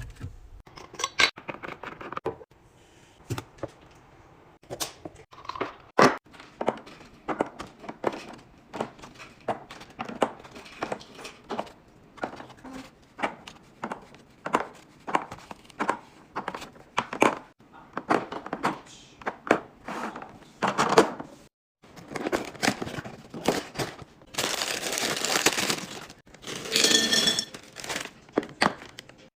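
Restocking handling sounds: a quick run of clicks, taps and knocks from packages and containers being opened and set down, with plastic crinkling. Near the end come two longer rushing noises of a second or so each.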